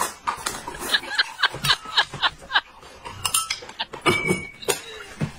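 Tableware clinking: a quick run of about nine light clinks, roughly four a second, then a few louder clinks and knocks near the end.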